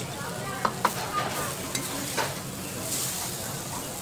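Fried noodles sizzling on a hot flat griddle, a steady hiss. A few sharp clicks and scrapes come from the cooking utensils knocking against the griddle and bowl, the loudest in the first second.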